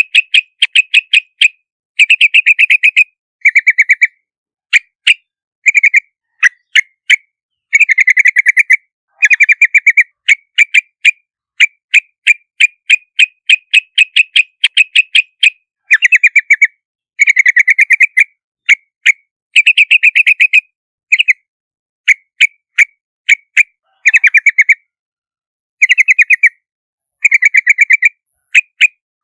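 Yellow-vented bulbul calling: rapid runs of short, sharp chattering notes, repeated in bursts with brief pauses between them.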